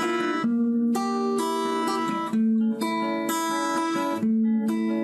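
Acoustic guitar fingerpicked in a steady eight-note arpeggio pattern, single plucked notes ringing over a Cm–A♭–Fm–G chord progression, with no singing.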